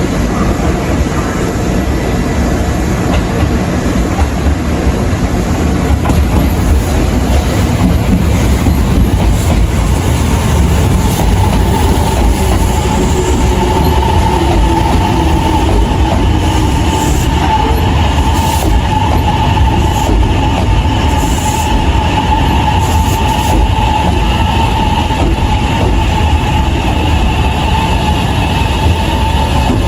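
Kintetsu electric train running at the platform: a continuous rumble of wheels on rails with a steady whine from the train, and a few brief high squeals from the wheels about halfway through.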